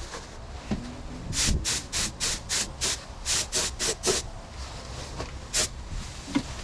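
Paint spray gun hissing in short bursts, about a dozen quick pulls of the trigger in under three seconds, then one more a second later.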